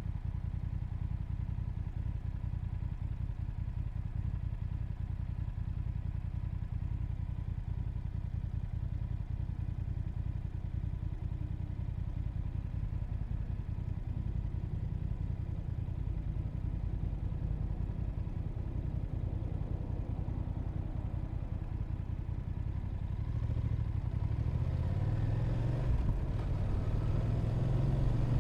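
Motorcycle engine running steadily, then rising in pitch and getting louder as the bike accelerates near the end.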